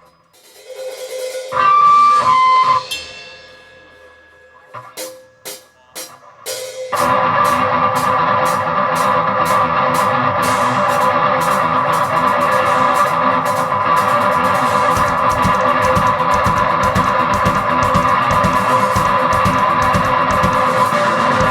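Live rock band starting a song: a few held electric guitar notes, a handful of sharp drum hits, then from about seven seconds in the full band with loud distorted guitars and fast, steady drumming.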